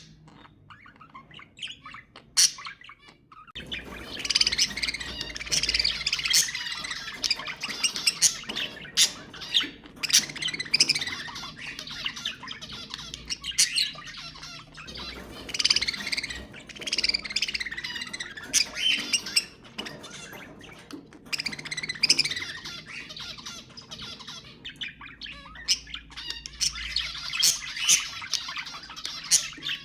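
A group of budgerigars chattering and squawking. A few single calls come first, then thick, continuous flock chatter from about four seconds in, easing off briefly near the end.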